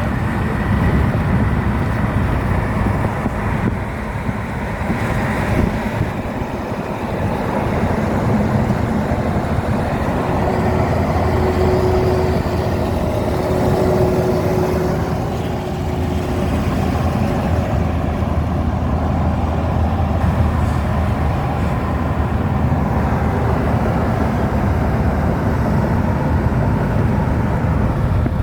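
Steady rumble of a Link light rail train running alongside freeway traffic, with a faint tone rising out of it for a few seconds near the middle.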